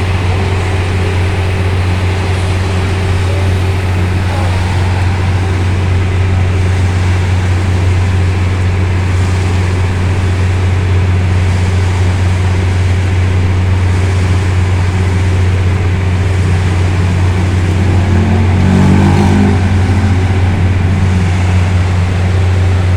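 Heavy diesel engine of a concrete mixer truck or concrete pump running steadily with a deep, even drone. From about 18 to 21 seconds in, a short stepped rising note sounds over it.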